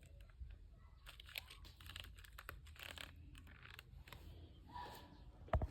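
Faint, irregular small clicks and rustles of objects being handled, with one sharper knock near the end.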